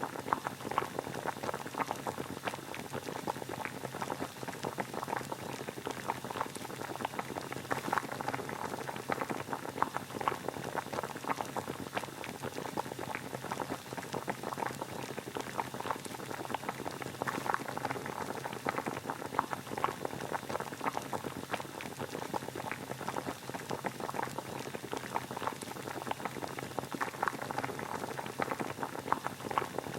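Water boiling steadily: a continuous bubbling with many small, irregular pops.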